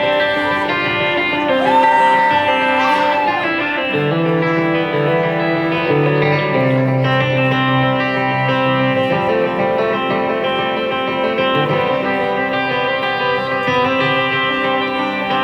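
Live guitar music: held chords that change every couple of seconds, with a gliding note about two seconds in.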